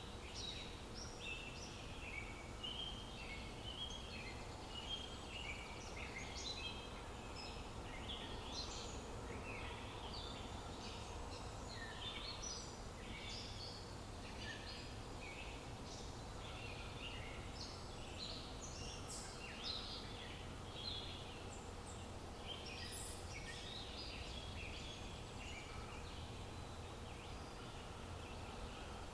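Several songbirds chirping and singing in overlapping short, high calls all through, over a steady low background hum of outdoor ambience.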